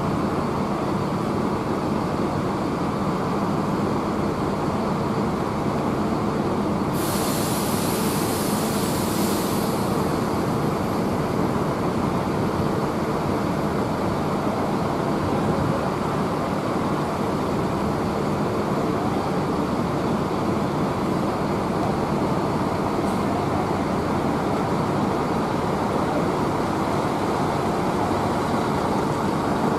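Heavy rain falling steadily, with a bus engine idling underneath. About seven seconds in, a loud hiss cuts in for about three seconds and then stops.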